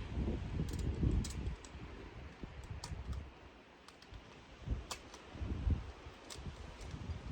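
Wind buffeting the microphone in gusts, with a handful of scattered sharp clicks.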